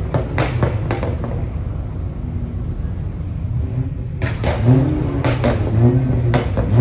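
Low steady rumble of a car driving, heard from inside the cabin, with a few short knocks and clatters in the second half.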